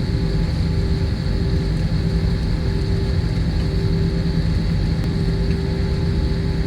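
Steady drone of a running vehicle: a constant low rumble with a few unchanging tones above it.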